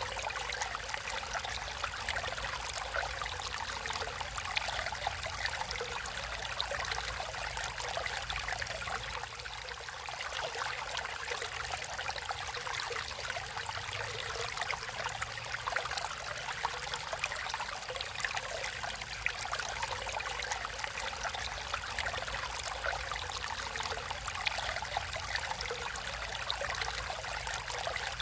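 Water flowing and trickling steadily over rocks in a stream, a continuous splashing babble with many small bright droplet sounds.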